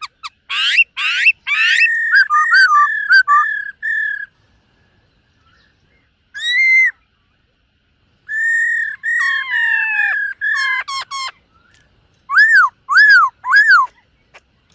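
Black-throated laughingthrush singing loud, clear whistled phrases. It opens with a quick run of clicks and rising sweeps, then strings of slurred whistles, with pauses of a second or two between bursts. Near the end come three arched whistles.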